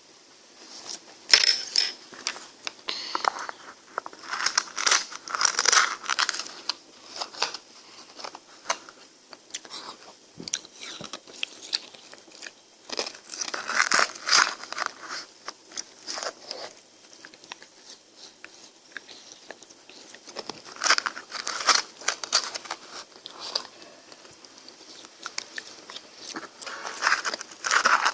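Close-miked crunching bites and chewing of frozen Fresh Cool ice cream, in crisp crackly bursts every several seconds with quieter stretches between.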